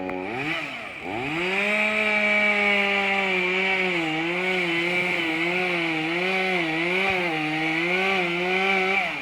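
Chainsaw running at high revs, cutting through wood. Its pitch dips and recovers about a second in, then sags and recovers about once a second under the load of the cut. The revs fall away at the end.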